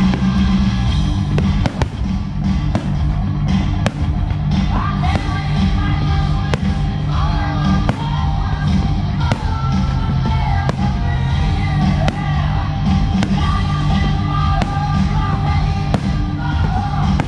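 Loud recorded rock-style song with singing playing over a fireworks show's sound system, with sharp bangs of firework shells bursting every second or two.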